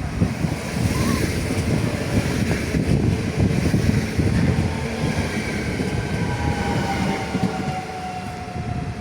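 Train running along the track close by, with a steady low noise. Over the last few seconds a whine slides gradually down in pitch.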